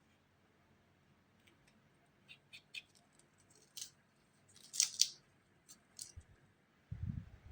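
Sparse light clicks and short scratchy sounds of spray-painting tools being handled. Two louder, close-together snips or scrapes come about five seconds in, and dull low thuds follow near the end.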